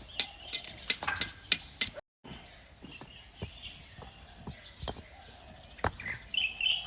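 Sharp, irregular clacks and knocks of bricks being handled and knocked together among demolition rubble. They come thickly at first, then more sparsely.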